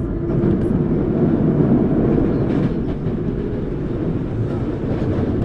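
Tokyu Series 9000 electric commuter train heard from inside a motor car: the steady, loud rumble of wheels and running gear on the rails as the train travels.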